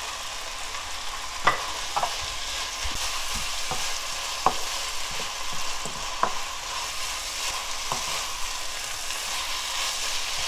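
Beef bulgogi with glass noodles and green onion sizzling in a pan while a wooden spatula stirs and tosses it, with several sharp knocks of the spatula against the pan.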